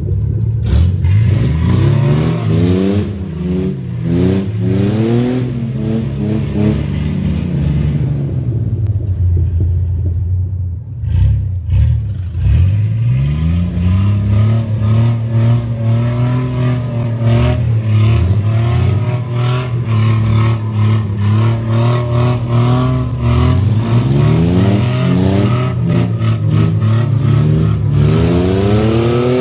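Truck engine revving, its pitch climbing and falling over and over, then held fairly steady for a stretch in the middle before climbing quickly again near the end.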